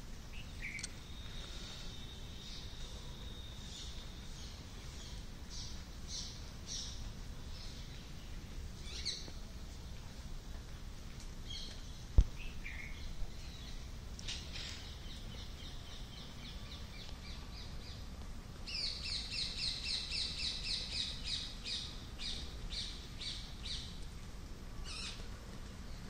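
Small birds chirping and trilling in high, quick notes, building to a fast, dense run of chirps in the second half, over a steady hiss of rain. A single sharp tap about halfway through.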